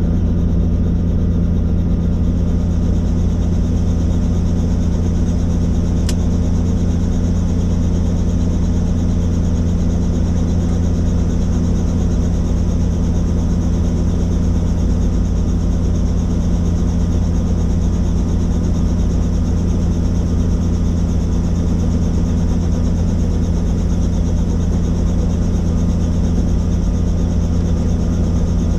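Helicopter's engine and rotor drone, steady and loud with no change in pitch or level.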